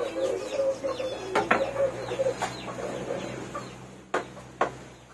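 Chickens clucking, with a few sharp knocks or clatters in between.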